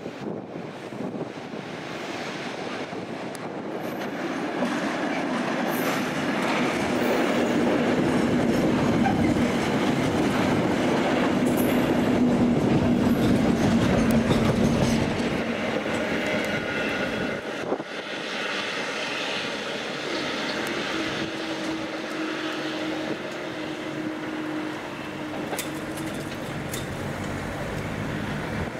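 A train running past on the rails, growing louder over the first few seconds, loudest in the middle, then easing off after about fifteen seconds.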